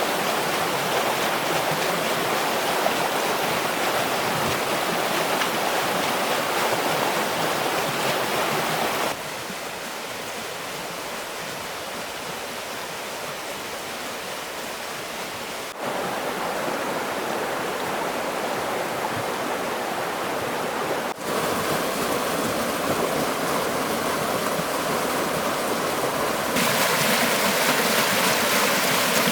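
Rushing stream water, a steady wash of noise that jumps abruptly in loudness and tone four times as the shots change.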